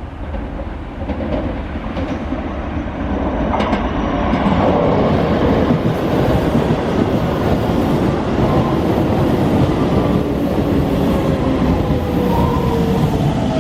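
Hokuso Railway 7300 series electric train pulling into the station, its wheels clattering on the rails and growing louder over the first few seconds. In the second half a whine slides down in pitch as the train slows.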